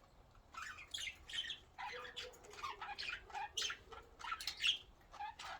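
Pet budgerigars chattering: a busy run of short, scratchy chirps and squawks, several a second, starting about half a second in.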